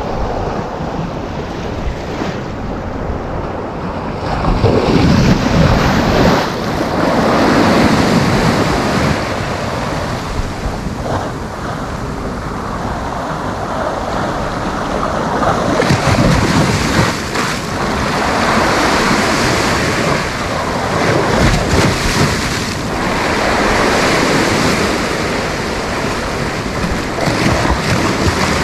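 Sea waves breaking and washing onto a sandy beach, swelling and easing every few seconds, with wind buffeting the microphone.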